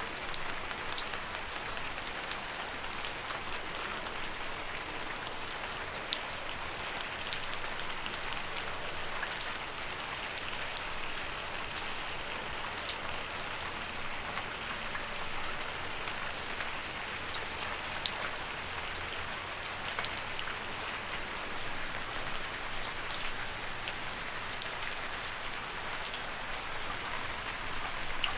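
Steady rain falling, an even hiss with scattered sharp drop ticks standing out now and then.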